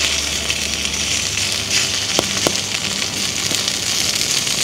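Food sizzling in a pan over a wood fire: a steady, dense sizzle with a couple of sharp pops about two seconds in.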